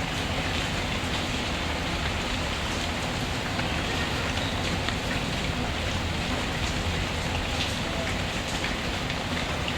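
Steady rain falling, mixed with a wood fire crackling, its occasional faint pops standing out over the even hiss of the rain.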